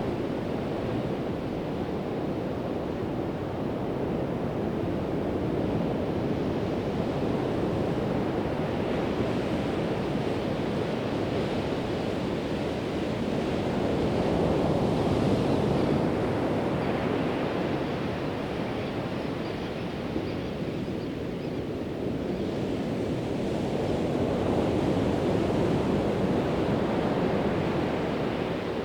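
Pacific Ocean surf: a steady wash of breaking waves that swells louder about halfway through and again near the end.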